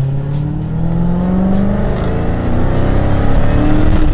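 Dodge Charger Hellcat's supercharged 6.2-litre V8 accelerating hard, heard from inside the cabin: the engine note climbs in pitch, drops at an upshift about two seconds in, then climbs again.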